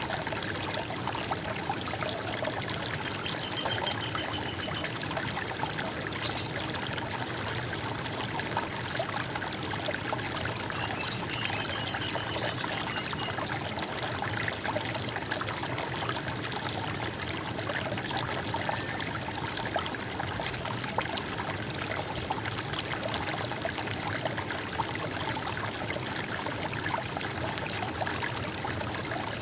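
Running water of a stream, trickling and gurgling steadily.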